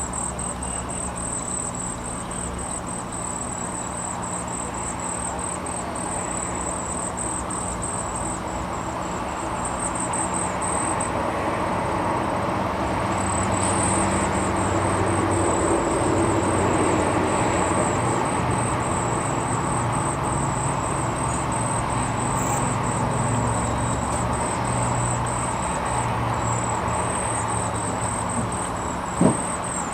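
Outdoor ambience: a high, rapidly pulsing insect trill over a steady low engine-like drone, with a single sharp knock near the end.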